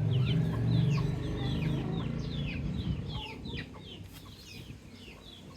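Domestic baby chicks peeping: many short, high chirps that each slide downward in pitch, overlapping continuously. A low steady hum underneath fades out about halfway through.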